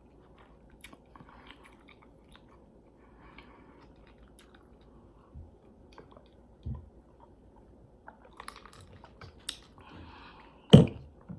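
A person chewing food close to the microphone: quiet wet mouth sounds with scattered small clicks and soft bites, and one sharp, louder click near the end.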